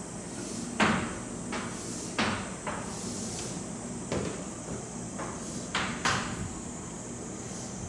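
A series of sharp, irregularly spaced taps and knocks, about eight of them, over a steady low hum.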